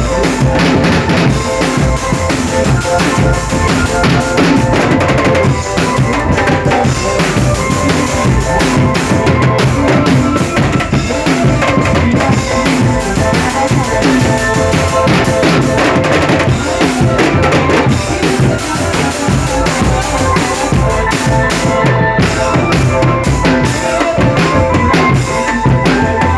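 Drumband playing: bass drums and snare drums beating a steady, loud marching rhythm, with held melodic tones running over it.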